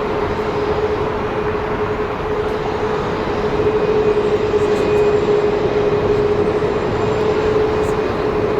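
Boeing 737 jet engines running: a loud, steady rushing noise with one steady droning tone held throughout.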